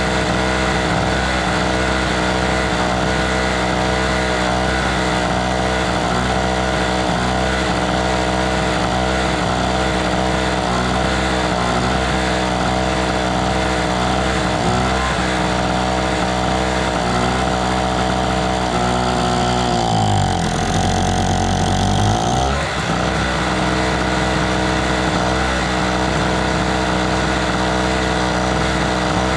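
The small two-stroke engine of a TOGO Power GG1000 1000-watt generator runs steadily. Its speed sags briefly about twenty seconds in and then picks back up to the same steady pitch.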